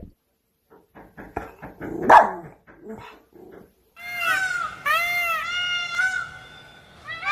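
A dog yipping: a few soft clicks and one sharp yelp about two seconds in, then a quick series of short, high, whining yips from about four seconds in.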